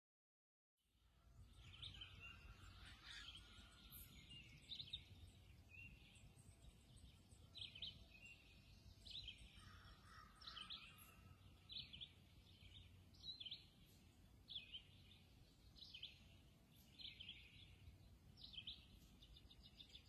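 Faint songbird singing in woodland: short chirping phrases repeated about once a second over a low steady background rumble. It starts about a second in, after silence.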